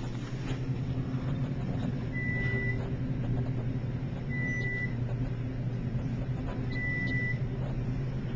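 Baxter & Sons traction elevator car in motion, giving a steady low hum, while a short high beep sounds three times, about two and a half seconds apart.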